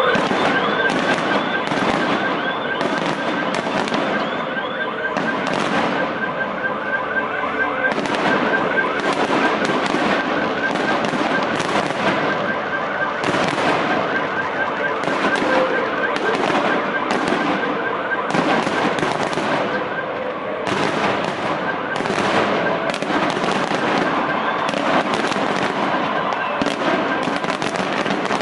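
Festive fireworks display with shells bursting in quick, irregular succession, several bangs a second throughout. Under the first few seconds, and again now and then later, runs a rapidly warbling siren-like tone.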